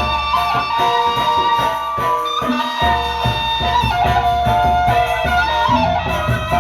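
Sasak gendang beleq ensemble playing: low drum beats keep a steady pulse under a high, ornamented melody line. The drums drop out for a moment a little after two seconds in, then return.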